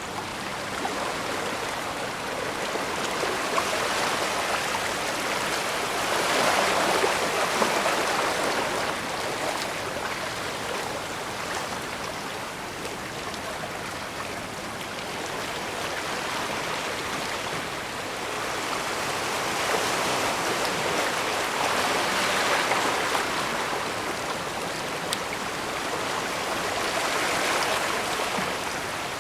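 Bay water washing against the shore, a steady rushing that swells and eases in slow surges every several seconds.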